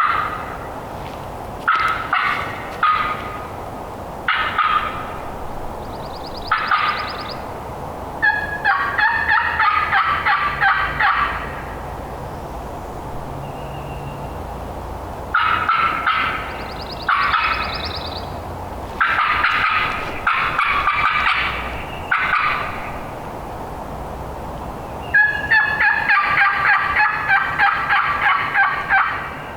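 Hand-made hen turkey calls, loud and close: several series of yelps and runs of fast, sharp notes, with pauses between them, sent out to strike a gobbler into answering.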